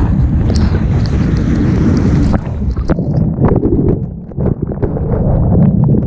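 Rushing surf water and wind buffeting a board-mounted action camera. About two and a half seconds in, the sound turns muffled and gurgling with small clicks as the camera goes under the water.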